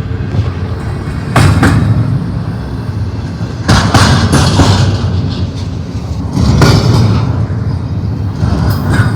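Double-stack freight train cars rolling past, a heavy low rumble that swells about every two and a half seconds.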